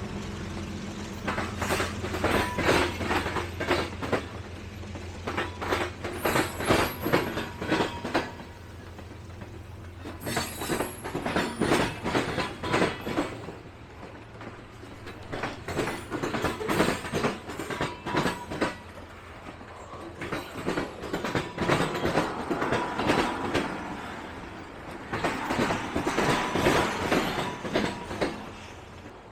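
Railroad cars rolling past. Their wheels clack over the rail joints in repeated groups, one group for each passing set of wheels. A low steady hum fades away over the first several seconds.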